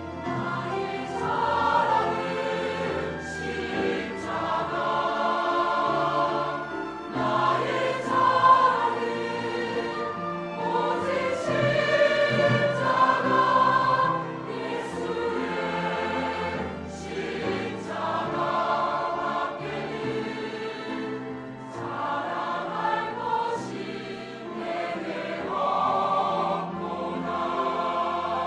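Church choir singing a hymn in sustained, flowing phrases.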